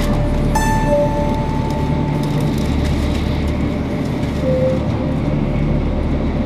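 Shinkansen bullet train running at speed, heard from inside the passenger cabin as a steady rumble and rush. A brief pitched tone sounds about half a second in.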